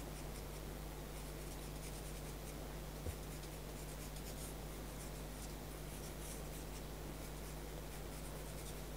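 Pastel pencil stroking lightly and softly across paper, a faint scratchy hiss, over a steady low hum, with one small tap about three seconds in.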